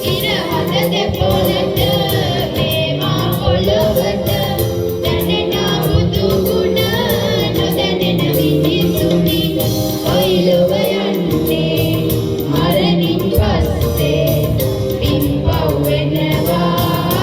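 A group of voices singing a Sinhala Buddhist devotional song (bodu bathi gee) in chorus, with instrumental accompaniment.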